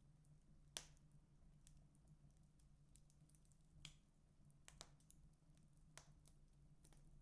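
Wood fire crackling in a fireplace: irregular sharp pops and snaps from the burning logs, the loudest about a second in, over a low steady hum.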